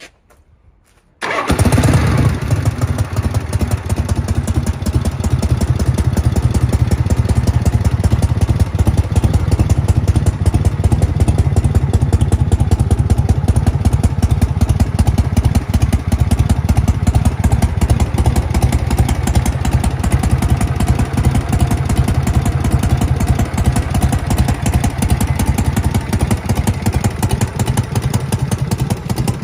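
1966 Harley-Davidson FLH's Shovelhead V-twin engine starting up about a second in, then running steadily.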